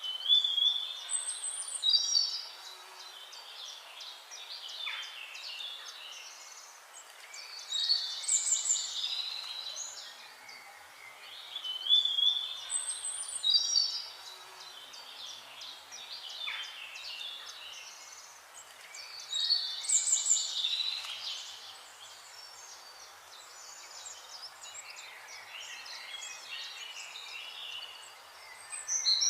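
Songbirds singing: a loud, varied song phrase of quick rising and falling whistles and trills comes several times, with softer chirping from other birds in between.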